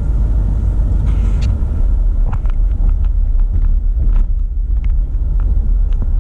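Steady low road and engine rumble inside a moving Honda Civic's cabin. Scattered short, sharp clicks over it, one every second or so.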